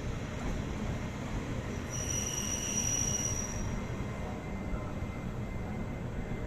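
Train running on the rails with a steady low rumble; about two seconds in a high-pitched squeal rises over it and fades after a second and a half.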